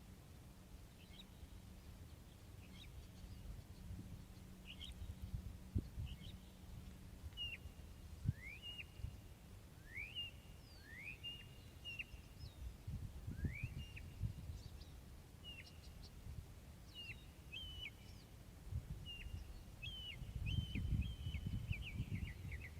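Wild birds calling: a steady series of short chirps and quick rising whistles, about one a second, running into a rapid chatter of chirps near the end, over a low outdoor rumble.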